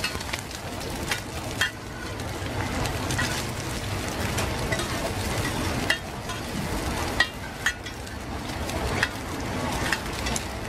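Oyster-and-egg batter frying in a shallow layer of hot oil in a wide steel pan: a steady sizzle. Metal spatulas scrape the pan and clink against it several times as the pieces are turned.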